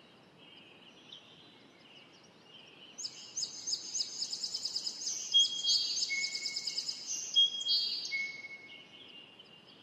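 Small birds chirping: faint high chirps throughout, and from about three seconds in a loud, rapid run of high-pitched chirps with a few short whistled notes, fading out near the end.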